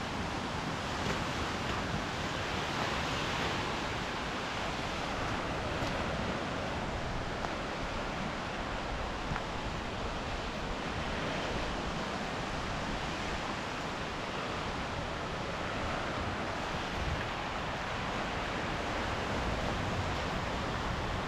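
Sea waves washing onto the shore with wind, a steady rushing that swells and eases every few seconds.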